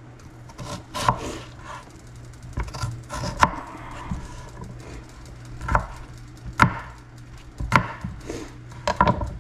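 Knife chopping red potatoes into small cubes on a cutting board: sharp, irregular knocks of the blade against the board, about one every second or two.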